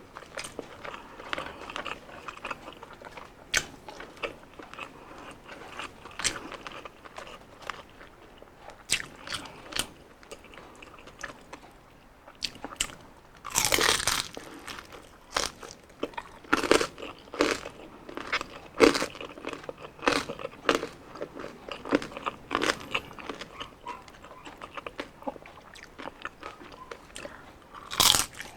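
Close-up biting and chewing of crispy deep-fried skin, with many sharp crunches and a few louder bites.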